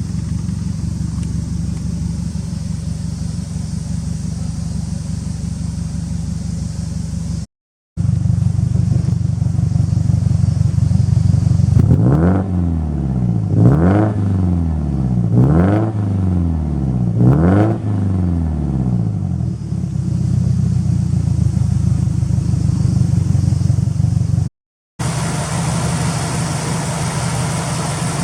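Subaru Impreza STI (GDB) turbocharged flat-four with a Tomei exhaust manifold and GP Sports muffler, idling steadily, then blipped four times in quick succession about halfway through, each rev rising and falling back, before settling back to idle.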